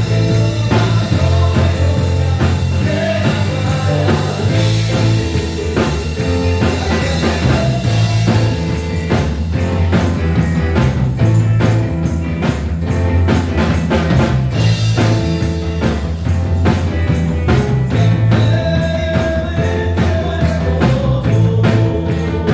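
A live worship band plays: bass, electric guitar and drum kit keep a steady beat, with some singing.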